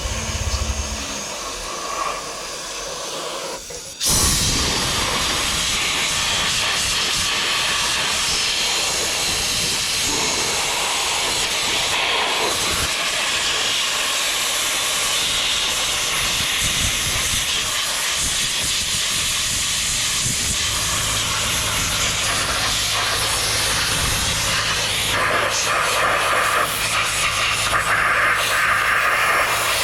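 A loud, steady hiss that starts suddenly about four seconds in and carries on with small dips, with a low steady hum joining it later on.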